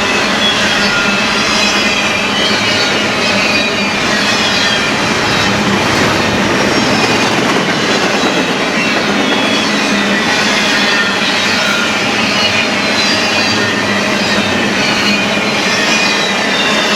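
BNSF freight train cars rolling past close by at steady speed, a continuous loud rumble with wheels squealing in several thin high tones against the rails.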